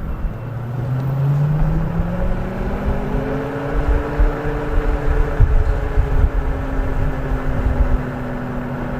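Silence S01 electric scooter under way, with low road and wind rumble and a motor tone that rises in pitch over the first few seconds as it picks up speed, then holds steady at cruise.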